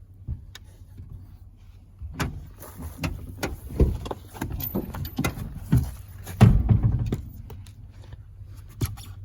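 Irregular knocks and metallic clinks from hand tools and seat hardware while seat bolts are worked loose inside an old truck. They are busiest from about two seconds in to about seven seconds, with a heavier knock near the middle.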